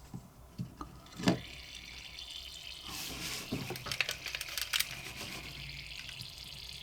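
Butane gas hissing out of a leaking Win gas lighter, a steady hiss from about a second in, with a few handling knocks early and a run of small clicks in the middle.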